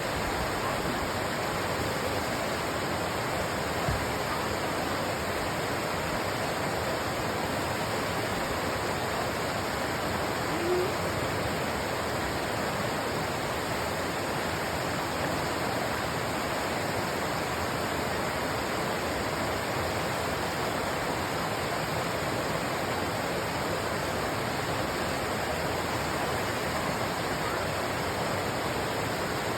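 River water rushing steadily, an even hiss of fast-flowing water. A brief knock comes about four seconds in and a short pitched sound near eleven seconds.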